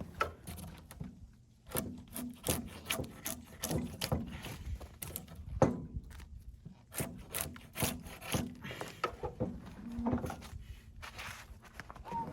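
Sawn wooden boards being handled, knocking and scraping against one another in an irregular string of sharp knocks.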